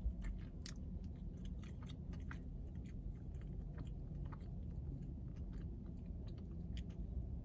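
Close-up chewing of a chicken biscuit: irregular soft mouth clicks and smacks over a faint, steady low hum.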